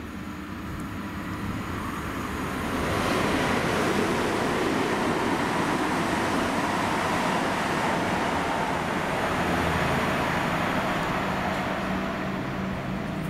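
Diesel train running through the station: a rush of wheel and rail noise builds over the first few seconds and holds before easing. A steady low diesel engine hum comes in near the end.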